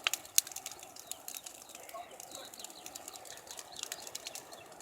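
Large wood bonfire crackling, with irregular sharp snaps and pops over a low, steady hiss of burning.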